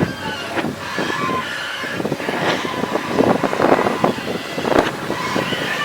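Excavator digging: a motor whine under irregular scraping and crunching of soil.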